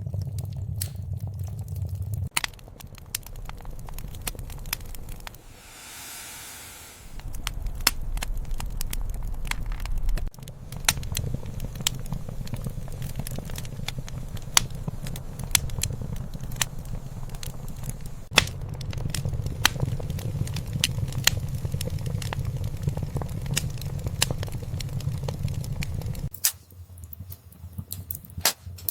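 Wood fire crackling and popping in a fireplace, with irregular sharp snaps over a low rumble of flames. There is a brief hiss about six seconds in.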